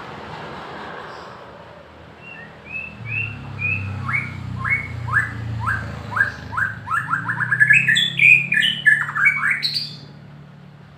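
A songbird sings a phrase of short notes. Level whistles give way to notes sweeping downward that speed up into a rapid trill, then climb to higher notes before it stops near the end. A low steady hum runs beneath it.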